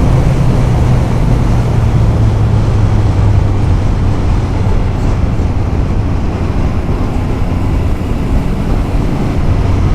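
Motorcycle engine running at steady road speed, with a dense rush of wind and road noise over it.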